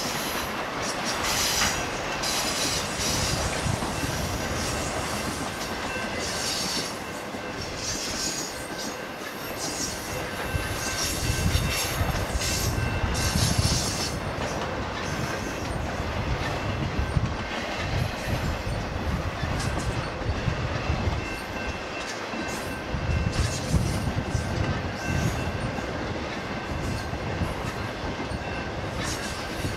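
BNSF intermodal freight cars carrying trailers and containers rolling past: a continuous rumble and clatter of steel wheels on rail, with high-pitched wheel squeal coming and going in the first half.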